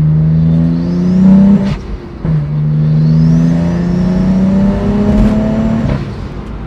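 Turbocharged N54 straight-six of a manually shifted BMW E82 accelerating hard, heard from inside the cabin. The engine note climbs, drops at an upshift about two seconds in, climbs again through the next gear, and falls away about six seconds in.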